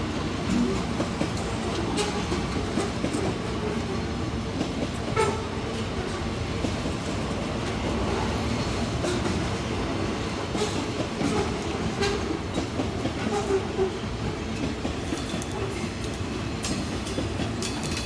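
Freight train rolling past: a steady rumble of wagons on the rails with occasional sharp wheel clicks.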